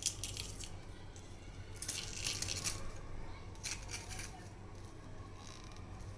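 Short scraping and rustling handling sounds from food preparation, coming in clusters a couple of seconds apart over a low steady hum.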